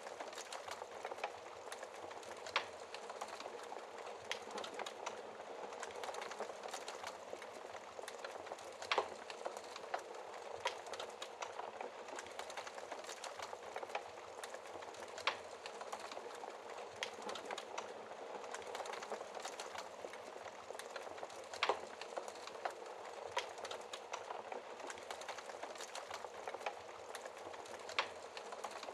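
Wood fire burning in a fireplace: a steady soft hiss with constant small crackles, and a louder pop every few seconds.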